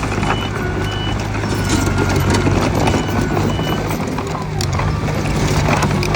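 Diesel engines of a bulldozer and dump trucks running with a steady low drone and much metal clanking, while a reversing alarm gives a few short high beeps.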